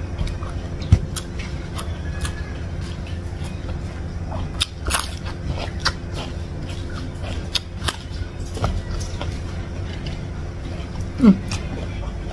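Close-miked eating: chewing with frequent wet mouth clicks and smacks while food is eaten by hand, over a steady low hum. A short low hum from the throat near the end.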